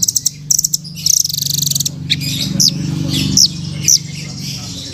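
Velvet-fronted nuthatch (rambatan) calling: fast buzzy trills and short, sharp downward-sweeping notes, repeated several times, over a steady low drone.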